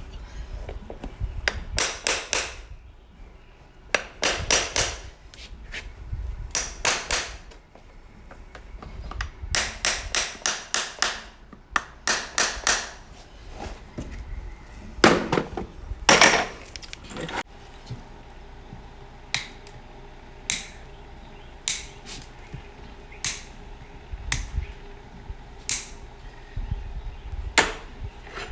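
Farrier's hammer striking horseshoe nails in a hoof against a clinch block, blocking the nails so their ends bend over into clinches. The strikes come in quick groups of three to five, then singly about once a second near the end.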